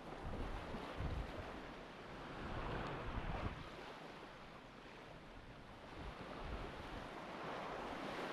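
Surf washing onto a beach, swelling and fading every few seconds, with gusts of wind rumbling on the microphone.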